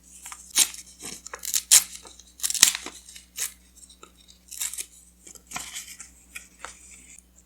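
Paper being torn by hand in short, crisp pulls, a string of irregular rips and rustles, the loudest about two seconds in.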